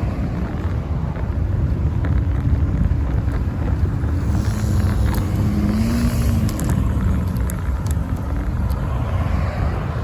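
Steady wind and road rumble on a bicycle-mounted phone microphone while riding along a city street. Traffic passes about four to six seconds in, with some light rattling clicks.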